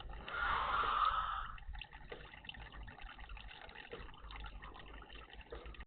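Water splashing in a garden bird bath: a burst of splashing lasting about a second, starting shortly after the beginning, over faint dripping and ticking.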